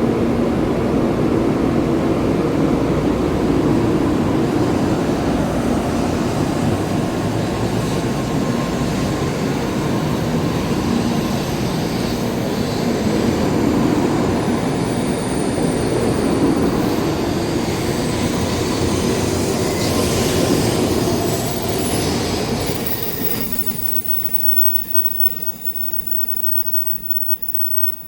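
8-car Shinkansen train running along the platform as it pulls out, a loud steady rumble and rush of wheels and motors that fades away about 23 seconds in.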